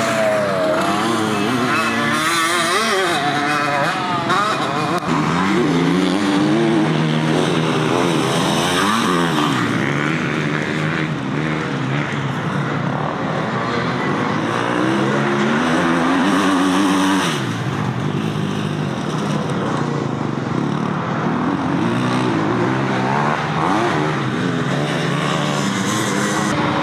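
Several motocross bikes racing, their engines revving up and dropping back again and again as they accelerate and shift, with more than one engine heard at once.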